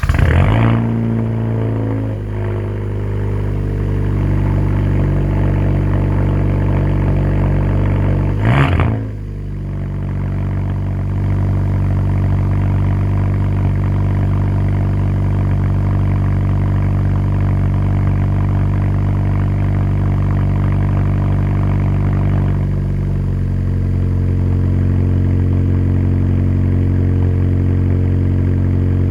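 A 2017 Hyundai Elantra Sport's 1.6-litre turbo four-cylinder, straight-piped with the muffler removed, catches on a cold start and flares up. It settles into a loud, raw-sounding fast idle, with one short rev blip about 8 seconds in. The idle steps down to a lower, steady note about 22 seconds in as the cold fast idle eases off.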